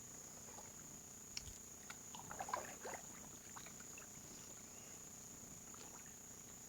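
Canoe paddle stroke: small knocks, then water splashing and trickling off the paddle about two seconds in. Underneath it all is a steady high-pitched drone of swamp insects.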